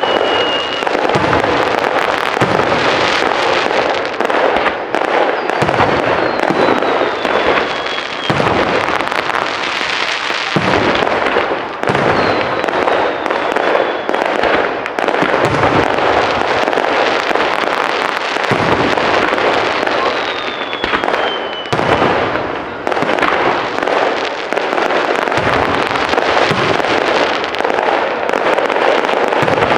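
Aerial fireworks display: a continuous barrage of shell bursts booming and crackling without pause, with a whistle falling in pitch three times over it.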